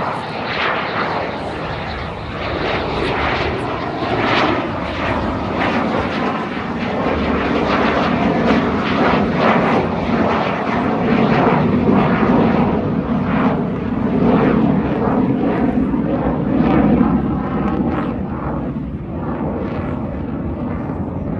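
Fixed-wing aircraft flying at an airshow display, its engine noise swelling to a peak a little past halfway through, then easing off as it passes.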